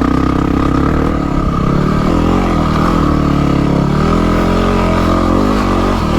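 Yamaha WR250R's 250 cc single-cylinder four-stroke engine running at low revs, its pitch rising and falling slightly with the throttle.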